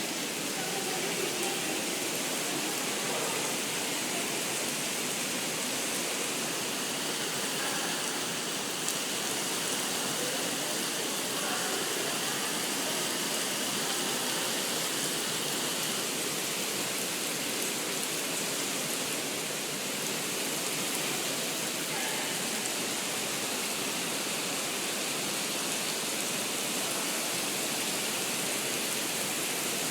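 Artificial indoor rain of the Rain Room installation, water falling steadily from the ceiling onto the floor, a continuous even hiss.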